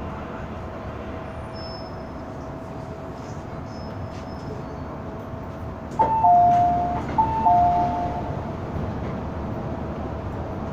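Inside a running MTR M-Train car: steady rumble with a constant tone. About six seconds in, a two-note electronic chime, high then low, sounds twice.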